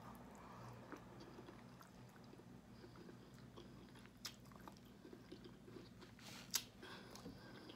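A person chewing chicken wings with the mouth close to the microphone: soft, wet chewing and small mouth clicks, with one sharper click about six and a half seconds in.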